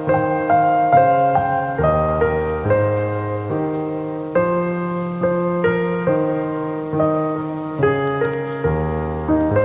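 Background piano music: slow, gentle chords and melody notes with a steady pulse.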